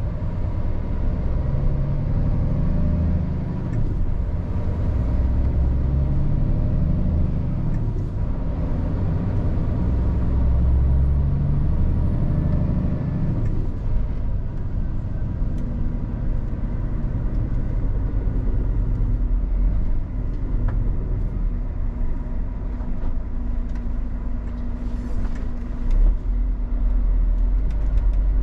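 Scania R450 truck's six-cylinder diesel engine running under way as a steady low rumble. About halfway through it evens out into a steady droning note.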